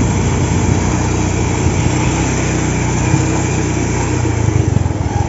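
Motor vehicle engine running steadily, with a constant hum that shifts a little near the end, over a noisy rush.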